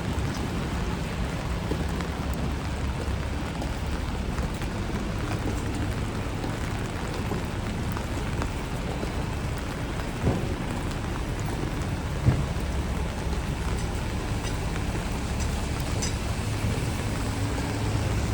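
Steady rain falling on a wet city street, with a low rumble of traffic underneath. Two brief knocks come about two seconds apart near the middle, and a low engine hum builds near the end.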